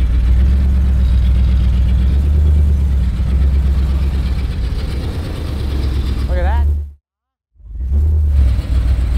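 1964 Dodge 440's engine running with a steady low rumble while the car rolls out under its own power. The sound drops out completely for about half a second near the end, then the rumble picks up again.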